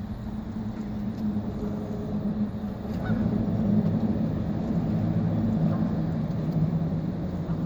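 An engine running steadily: a low hum that grows a little louder about three seconds in.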